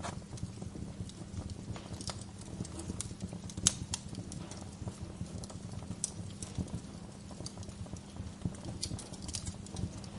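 Fire in a fireplace crackling, with frequent irregular small pops over a steady low rumble; one sharp pop is the loudest, about a third of the way in.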